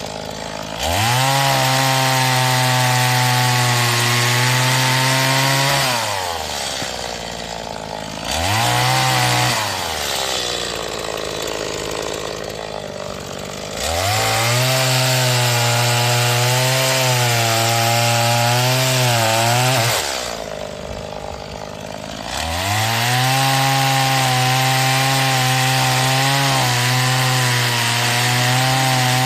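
Stihl MS 180 two-stroke chainsaw being run in while cutting firewood: three long cuts of about five to seven seconds each at a steady high engine speed, the pitch wavering slightly under load. Between cuts the engine drops back to idle, with one short blip of throttle between the first two cuts.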